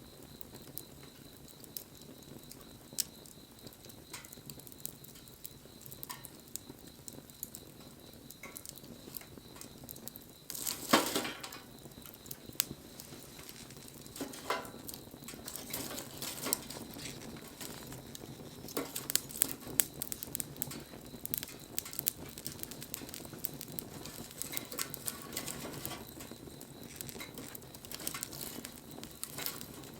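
Wood fire burning, with a steady hiss and irregular crackles and pops, which grow more frequent in the second half. About eleven seconds in there is a louder burst of noise lasting about a second.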